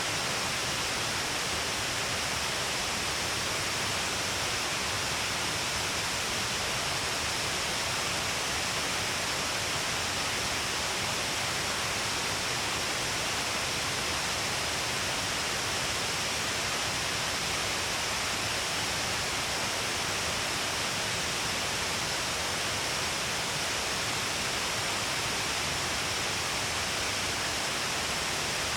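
Shiraito Falls, many streams of water falling all along a cliff face, rushing steadily: an even, unbroken wash of falling water and spray with no change in level.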